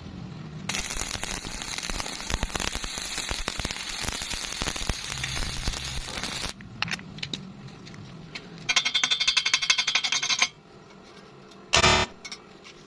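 Electric arc welding crackling and spitting for about six seconds. After a pause comes a quick rhythmic series of sharp scraping or tapping strokes lasting about two seconds, then a single short loud burst near the end.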